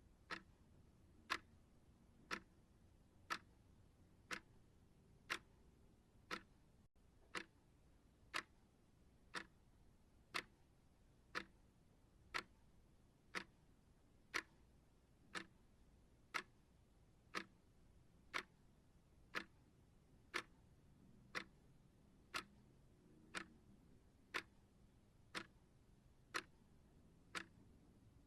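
Steady clock ticking of a focus timer, one even tick each second.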